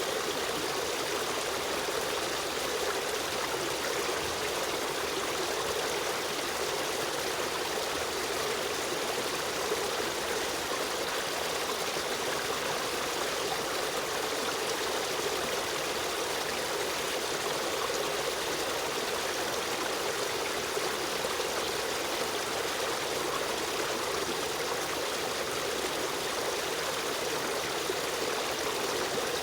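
Stream of running water flowing and trickling in a steady, even rush.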